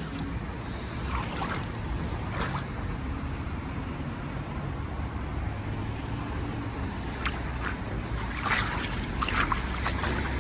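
Wind rumbling on the microphone over lapping, sloshing floodwater, with a few short sharp sounds toward the end.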